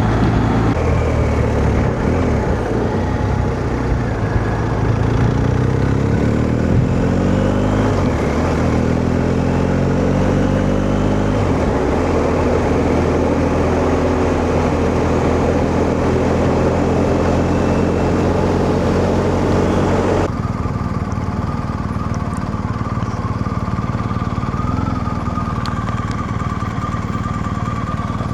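Motorcycle engine running under way with wind noise, heard through a helmet-mounted mic. The engine note climbs between about five and twelve seconds in, then holds steady. About two-thirds of the way through, the sound suddenly turns duller.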